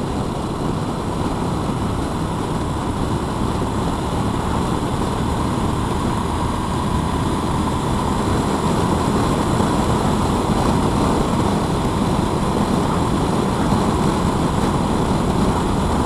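A motorcycle being ridden: steady engine and road noise with air rushing past, rising slightly in loudness over the stretch.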